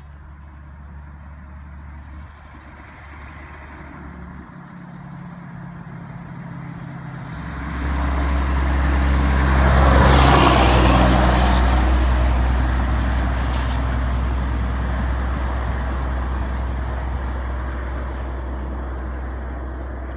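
Diesel engine of a 1980 Mack R-model truck running, then rising sharply about eight seconds in as the truck pulls away under power, loudest a couple of seconds later and slowly fading.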